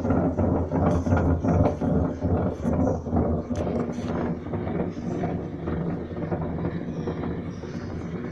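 Washing machine running: a steady motor hum with rapid knocking and clattering, gradually getting quieter in the second half.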